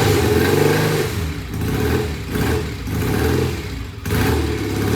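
Vintage BSA motorcycle engine running just after being kick-started, its revs rising and falling unevenly on the throttle because it won't idle.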